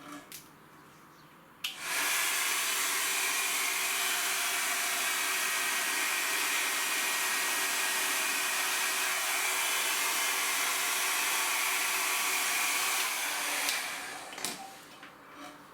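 Handheld electric blower switched on about two seconds in, running steadily with an even rushing noise for about twelve seconds, then switched off and winding down. A couple of light knocks come just before and after it.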